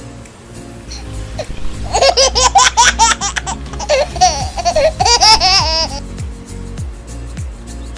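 High-pitched laughter in quick repeated bursts for about four seconds, starting about two seconds in, over background music with a steady beat.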